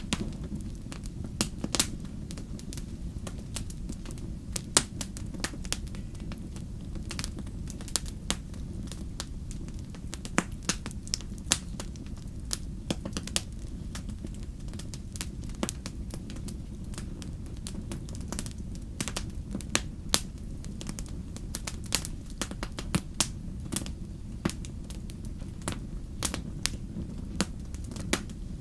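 Wood fire crackling in a fireplace: a steady low rumble of flame with frequent sharp, irregular pops and snaps.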